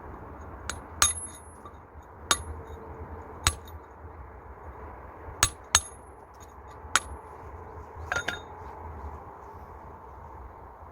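Hard objects knocking together in sharp, separate clinks with a brief ring, about nine in ten seconds at uneven intervals.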